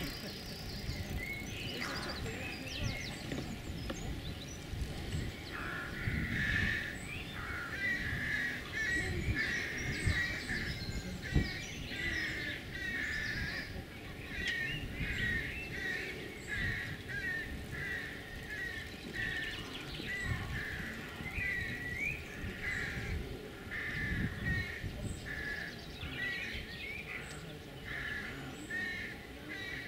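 Wild birds singing, with many short, quick repeated phrases that thicken from about six seconds in. Beneath them runs a steady low rumble.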